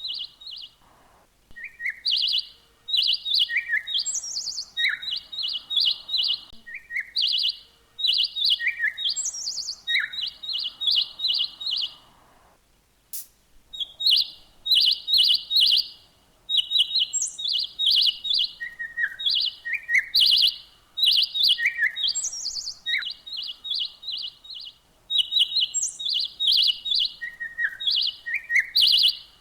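Songbird chirping in quick, repeated bursts of high notes, some phrases opening with a falling note, with short pauses between bursts and a longer lull about halfway through.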